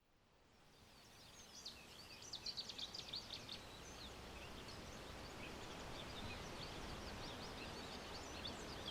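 Faint birdsong ambience fading in about a second and a half in: many small birds chirping over a steady hiss, the chirps thickest a couple of seconds in.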